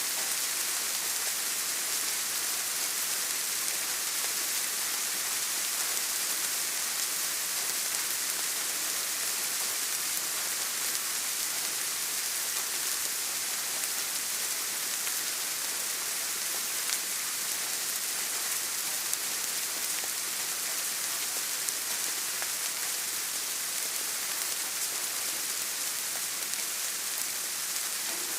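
Steady rain falling, an even hiss heaviest in the highs, with a few faint separate drop ticks.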